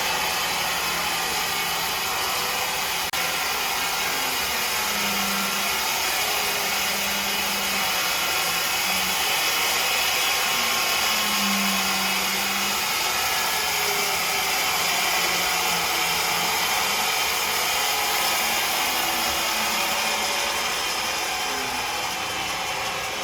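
Woodworking machinery running continuously, a dense steady hiss over a faint low hum.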